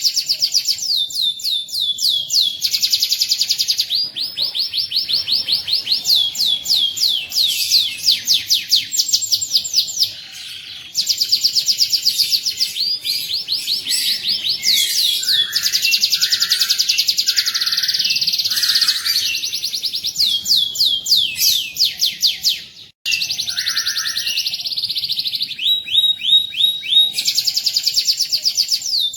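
Domestic canary singing a rolling song: fast trills of rapidly repeated high, falling notes, switching to a new trill phrase every second or two, with a short lull about ten seconds in.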